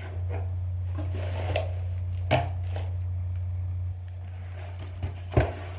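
Handling of a cardboard snack box and its paper contents: a few short crinkles and knocks, the sharpest about five seconds in, over a steady low hum.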